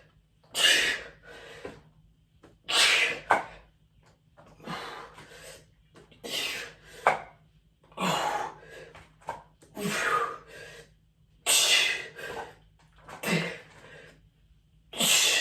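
A man's sharp, forceful breaths of exertion, one roughly every two seconds, about nine in all, as he works through a set of arm exercises.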